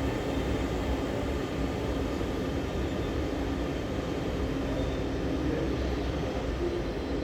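FlixTrain passenger train running along the track: a steady rumble with a constant hum.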